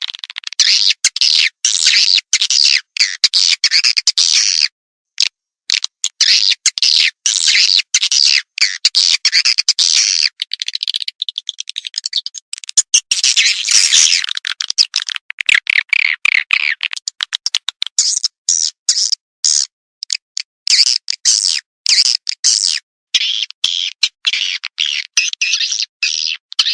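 Swiftlet call sound used to lure swiftlets into a nesting house: fast, dense chattering chirps and clicks in long runs, broken by a few short pauses.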